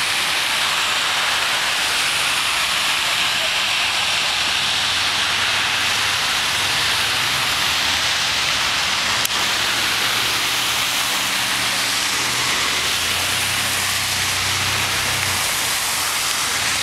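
Steady loud hiss of heavy rain and water over a flooded road and parking lot. A low hum of vehicle engines rises in the middle and fades near the end, with one small click a little past halfway.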